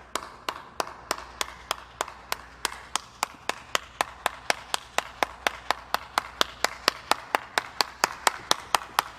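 Sharp clicks, evenly spaced at about four a second, growing slightly louder.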